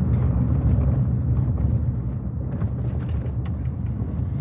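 Steady low rumble of a car's engine and road noise while driving.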